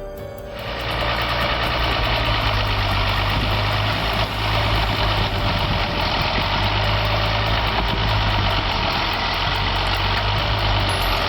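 Tractor engine running steadily with a loud hiss of noise over it that swells in under a second in.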